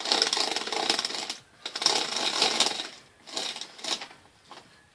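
Handling noise: rustling and scraping right against the microphone in three rasping bursts, about a second each, with short quiet gaps between.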